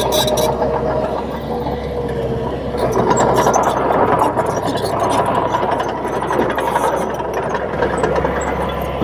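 Bulldozer's diesel engine running steadily, with a thin whine over the low hum and scattered metallic clicks and clanks.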